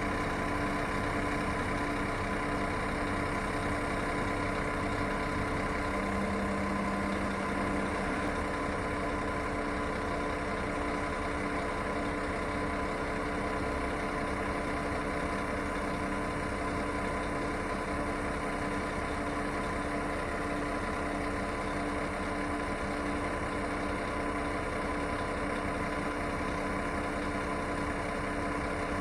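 Scania coach's diesel engine idling steadily, an even drone with several fixed pitched tones that does not rise or fall.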